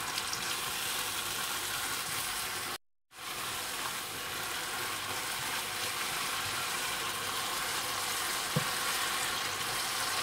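Onion-tomato masala sizzling as it fries in oil in a pot, stirred with a spoon. The sound cuts out for a moment about three seconds in, and a light knock comes near the end.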